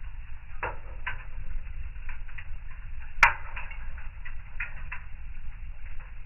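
Fire in a fireplace crackling: irregular small snaps over a low steady rumble, with one sharp, loud pop about three seconds in.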